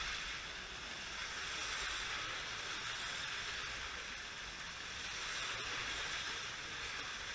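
Several slot cars running laps around the track together: a steady whirring hiss of their small electric motors.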